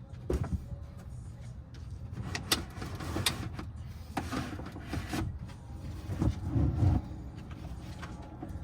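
Steady low rumble of a vehicle, with scattered knocks and clicks over it.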